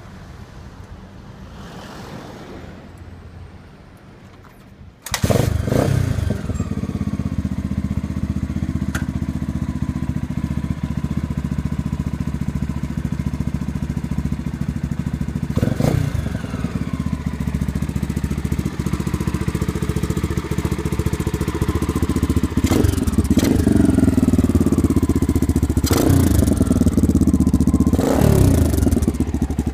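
Honda XLR250R motorcycle's single-cylinder four-stroke engine catching about five seconds in, then idling steadily, with a few short blips of the throttle in the second half.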